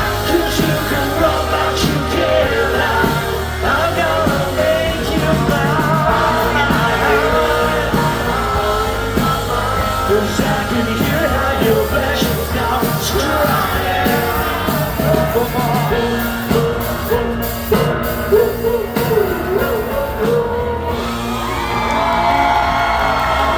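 Live rock band playing, with drums and singing and scattered yells from the audience.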